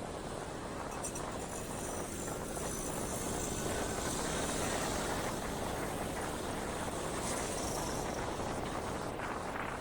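Motorcycle under way in city traffic: a steady rush of wind and road noise with the engine running, swelling a little in the middle.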